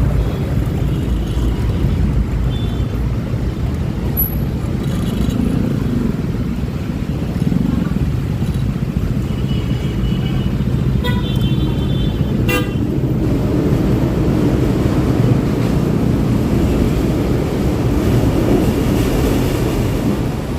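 Riding noise from a Honda Click 125i scooter in city traffic: a steady rumble of engine and wind. Short vehicle-horn toots sound a few times, most clearly in a cluster about eleven to twelve seconds in.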